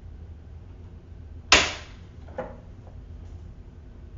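A single sharp snap with a short hissing tail about a second and a half in, followed by a couple of faint knocks, made while the non-working Ryobi 18V cordless wet/dry vacuum is being handled.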